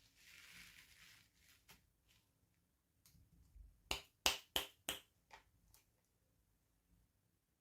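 Plastic toy packaging being handled: a short rustle, then a quick run of sharp plastic clicks and snaps about four seconds in, with a few fainter clicks after.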